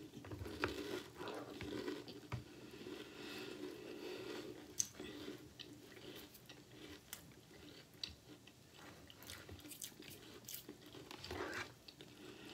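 A person chewing a mouthful of crispy oat cereal puffs with a creme coating, soaked in milk: soft, scattered crunches and mouth sounds.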